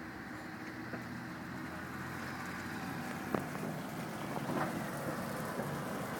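Funicular railway car running on its track: a steady rumbling noise with a few sharp clicks.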